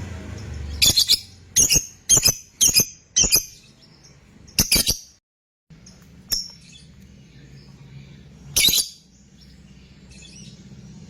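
Lovebird giving short, sharp, shrill calls, a quick run of about six in the first five seconds, then two more spaced out. The sound drops out briefly just after the run.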